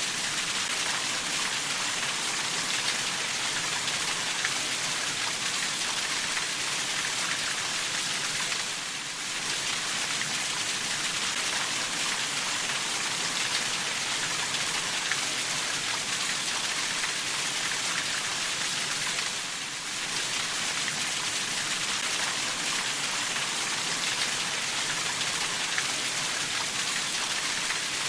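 Steady rainfall: an even hiss of many drops falling on a surface, dipping briefly in level twice, about nine and nineteen seconds in.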